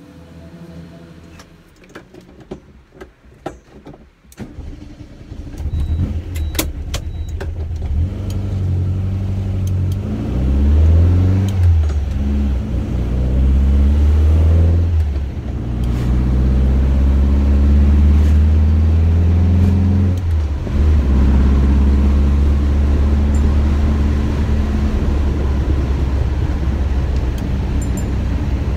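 Air-cooled VW Beetle 1303S with a tuned 2007 cc flat-four on twin Weber 48 IDA carburettors, heard from inside the cabin. After a few quiet seconds with some clicks, the engine pulls away, rising in pitch through the gears with a shift about halfway through and another a few seconds later, then runs steadily at cruise.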